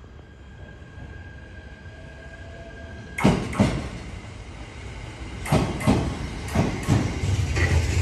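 A train rolls in along the platform. A low rumble rises for the first three seconds, then its wheels start knocking over the rail joints in pairs, getting louder.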